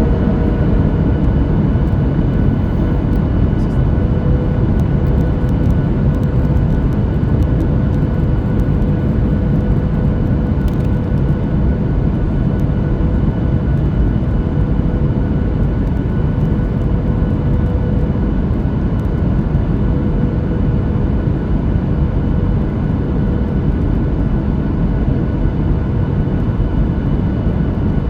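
Steady airliner cabin noise inside a Boeing 737-9 MAX, airflow and its CFM LEAP-1B engines, with a few faint steady tones over it.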